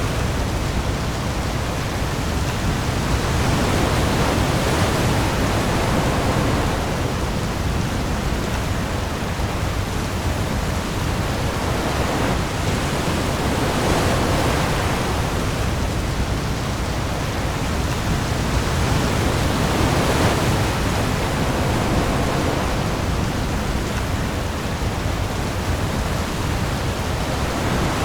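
Heavy rain pouring onto the open sea with waves, a dense steady rushing hiss that swells and eases every few seconds over a deep low rumble.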